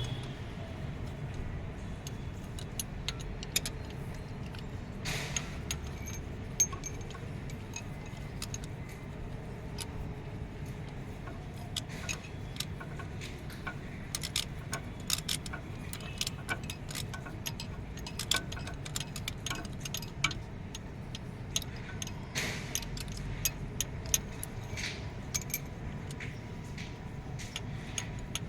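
Irregular sharp metallic clinks and clicks of hand tools on metal engine parts during excavator engine work, over a steady low hum.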